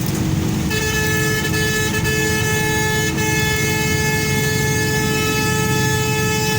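A vehicle horn comes in about a second in and holds one steady, unchanging note over the continuous rumble of engine and tyres on the highway.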